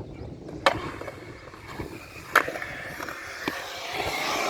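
Skateboard wheels rolling on concrete, with a sharp clack of the board about half a second in and another about two and a half seconds in; the rolling gets louder near the end.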